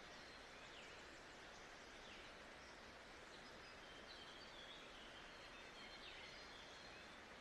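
Faint nature ambience: a steady, even hiss with brief, faint bird chirps and whistles scattered through it.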